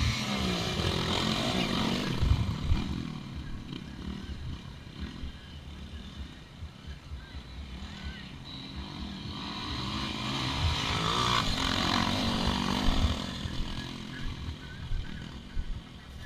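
Motocross bikes racing past, engines revving up and down as they ride the track. The sound swells twice, first at the start and again from about nine to thirteen seconds in. Wind buffets the microphone throughout.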